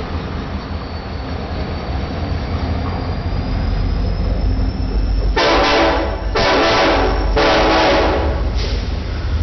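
Diesel locomotive horn sounding three blasts of just under a second each, then a short fourth, over the steady low rumble of the passing train.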